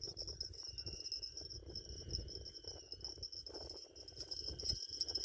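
Steady high-pitched chirring of insects, with a low uneven rumble of wind on the microphone underneath.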